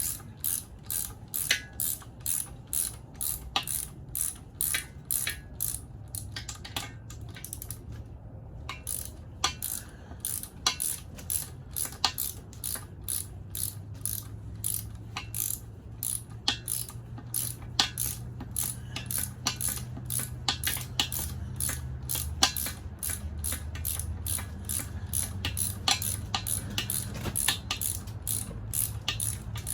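Pass-through socket ratchet clicking in steady repeated strokes, about two clicks a second, as bolts are worked loose to free the flywheel, with a brief pause partway through. A steady low hum runs underneath.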